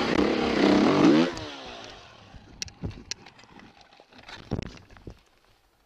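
Dirt bike engine running at high revs, its pitch falling away after about a second as it fades out, followed by a few faint knocks and clatters.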